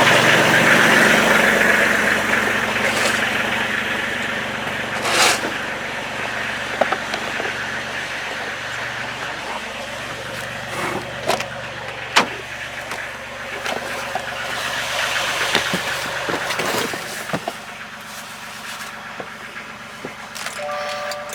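A vehicle engine running, fading over the first few seconds, with scattered sharp clicks and knocks.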